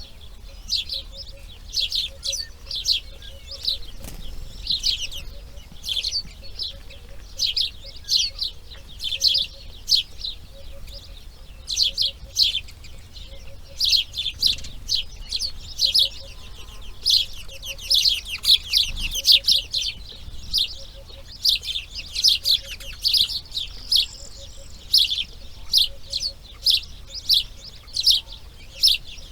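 Small birds chirping in short, high, rapid calls, two or three a second and without a break, over a faint lower repeating note.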